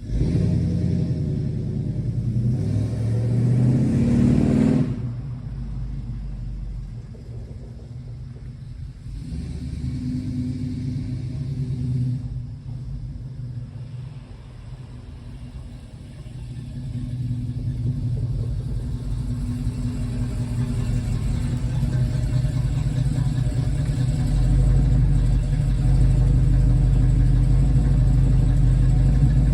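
Freshly rebuilt Ford 302 V8 driving a car at low speed, accelerating with a rising engine note that drops off sharply about five seconds in. It picks up again around ten seconds and runs steadier and louder toward the end.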